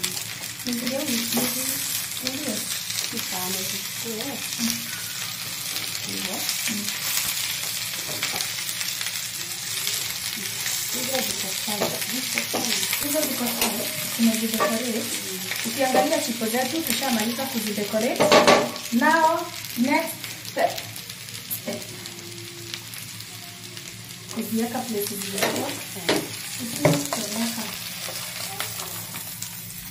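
Chips frying in oil in a pan, sizzling steadily while a wooden spoon stirs and tosses them with onion and coriander garnish at the end of frying. The sizzle dies down near the end.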